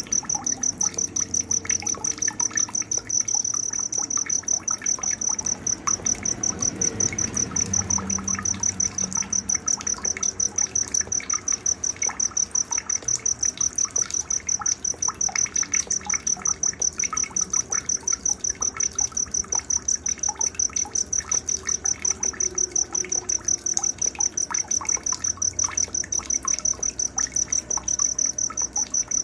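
A cricket chirping in a fast, even pulse, about four or five a second, with scattered short bird chirps over it: a night nature soundscape.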